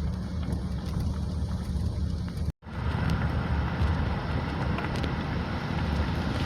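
Car driving, a steady low rumble of engine and road noise. The sound cuts out completely for an instant about two and a half seconds in, then picks up again.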